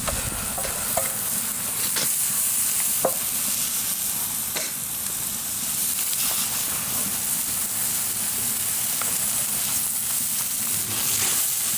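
Food sizzling steadily in pork fat on a cast-iron pot-lid griddle, with a few light clicks of a cooking utensil.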